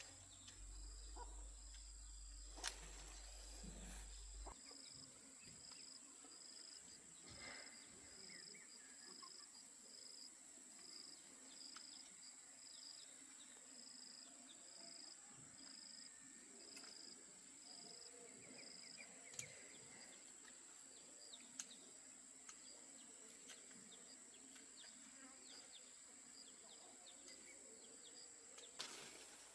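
Faint insects calling: a steady high-pitched drone, with a second insect chirping in regular pulses about one and a half times a second that stops about two-thirds of the way through. A few faint clicks sound now and then.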